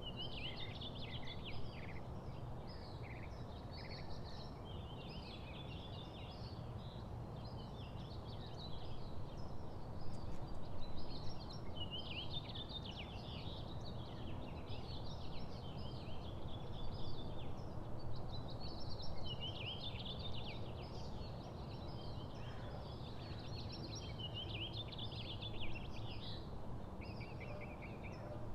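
Songbirds singing in quick twittering phrases, repeated every few seconds, over a steady low background rumble.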